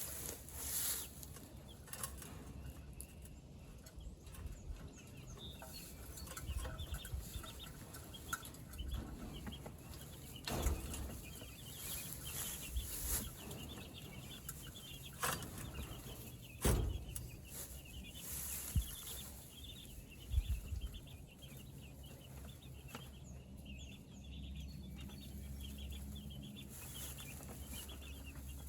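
Flock of meat chickens peeping and clucking in a steady chatter of short high calls, with some wing flapping and a few sharp knocks.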